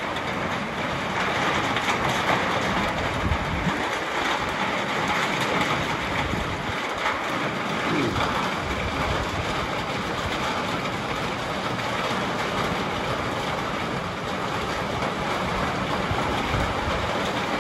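Steady rain falling on rooftops, with wind rumbling unevenly on the microphone.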